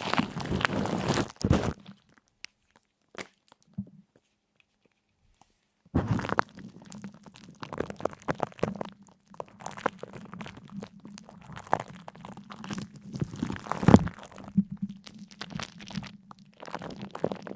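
Crisp crunching and crackling: a dense run of crunches for the first couple of seconds, a gap of near quiet, then irregular crunches again from about six seconds in.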